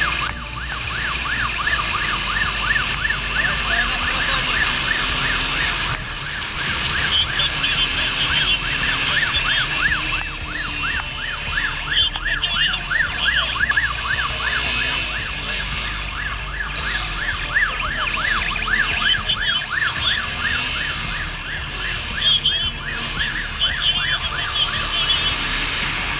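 Police siren in a fast yelp, its pitch rising and falling several times a second, over the low rumble of a vehicle on the road. Short bursts of a higher chirping tone cut in now and then.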